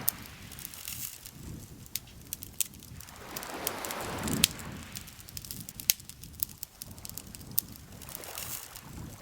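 Wood campfire crackling, with sharp pops scattered irregularly throughout. A soft rushing swell builds to its loudest about four and a half seconds in, then fades.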